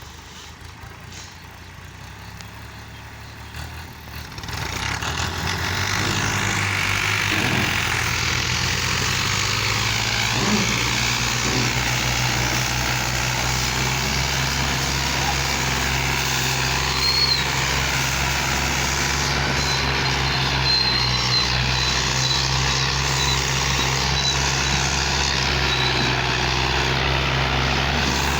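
Ghazi 480 tractor's diesel engine running under load while pulling a heavily loaded trolley. It grows louder over the first five seconds or so, then holds a steady, even drone.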